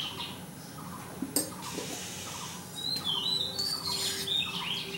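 A bird chirping in quick runs of short calls, one run at the start and another from about three seconds in, with a single sharp click about a second in.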